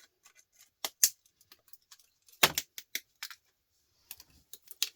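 Scattered sharp clicks and clinks of small hard scrap parts and hand tools being handled on a workbench, with a louder knock about two and a half seconds in and a quicker cluster of clicks near the end.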